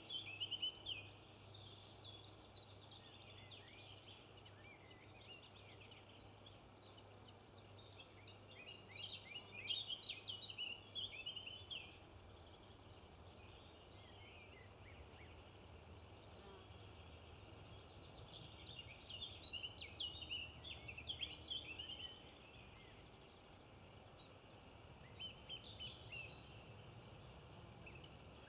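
Flock of birds chattering in several bouts of quick, high-pitched overlapping calls, with quieter gaps between the bouts.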